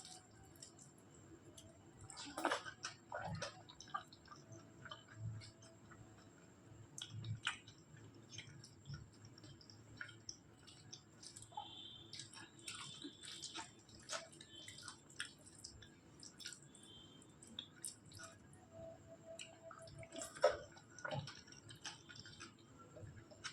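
Close-up eating sounds: wet chewing and many small mouth clicks, with two louder sudden sounds, one a couple of seconds in and one near the end.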